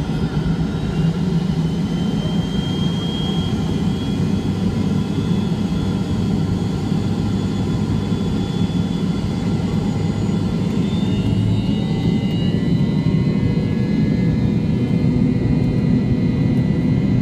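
Pratt & Whitney JT8D turbofan engines of a McDonnell Douglas MD-82 running at high power for takeoff: a heavy steady rumble under a high whine that wavers in pitch, growing slightly louder.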